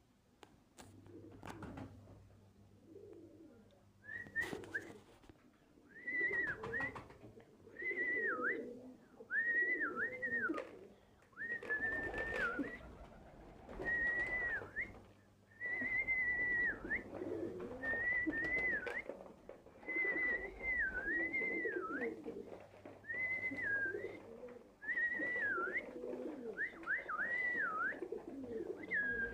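Birds calling over and over: a clear whistled call that dips in pitch and comes back, repeated about once a second, over a lower cooing murmur from the flock.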